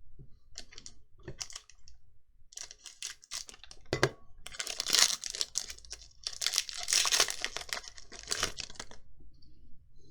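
A foil booster-pack wrapper being torn open and crinkled: a run of scratchy rips and crackles that grows loudest about halfway through, after a few light handling clicks.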